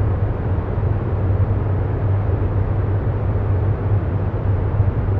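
A steady, low humming drone over an even rushing noise, unchanging throughout: an ambient background bed under the meditation.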